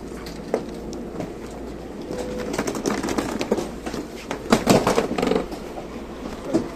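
Background sound in a local train standing at a station: scattered clicks and knocks with uneven bursts of sound, and one short steady tone about two seconds in.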